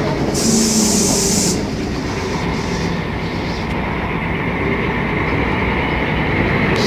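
Mercedes-Benz O500MA articulated bus heard from on board, its engine and drivetrain running with a steady low rumble. About half a second in, a sharp hiss starts and cuts off a second later.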